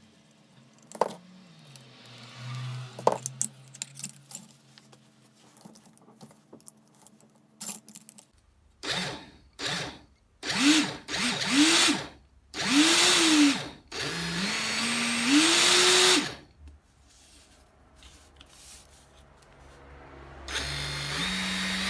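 Makita HR161D 12V cordless hammer drill being run in a series of trigger pulls, with a few handling clicks first. The motor spins up and winds down in short bursts, then runs longer with its pitch climbing in steps as the trigger is squeezed further.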